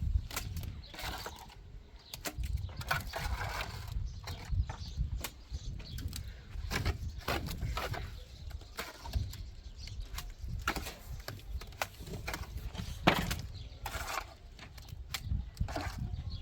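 Irregular scrapes and knocks of hand tools working cement, with one sharper knock about 13 seconds in.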